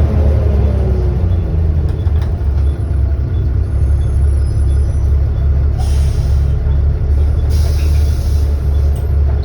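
Volvo B7TL double-decker bus heard from on board: the steady low drone of its six-cylinder diesel engine, with two short bursts of air hiss about six and eight seconds in.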